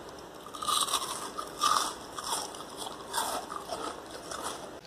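Close-miked biting and crunchy chewing of food, several crisp bites and chews in an uneven run, the loudest about a second in and near the two-second mark.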